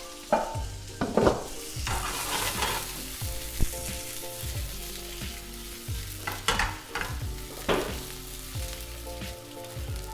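Sliced sausage and bacon sizzling as they fry in a pan, stirred and turned with a utensil that scrapes and knocks against the pan a handful of times.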